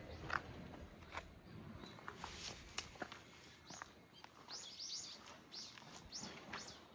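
Small birds chirping: a quick run of short, high calls that slide downward, mostly in the second half, over faint background hiss. A few sharp clicks come in the first half, the loudest just after the start.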